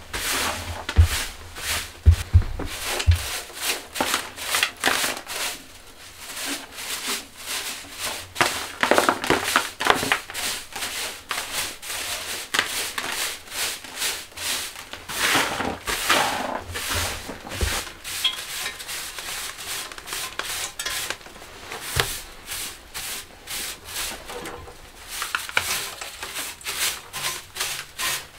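Repeated irregular rubbing and scraping strokes against a surface, with a few low knocks in the first few seconds.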